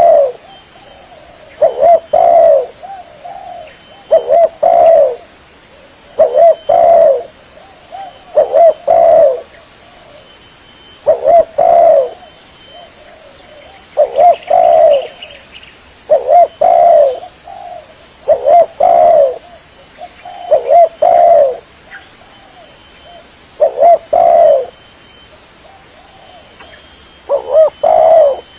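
Spotted dove (tekukur) cooing. Short phrases of two or three low notes repeat about every two seconds, a dozen times in all.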